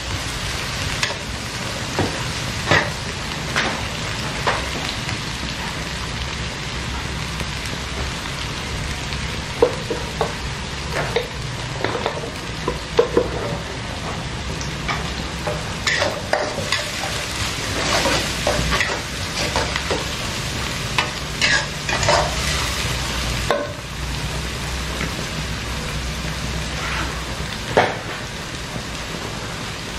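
Chopped garlic, shallots and chilli sizzling in oil in a wok, stirred with a metal spatula that scrapes and knocks against the pan now and then.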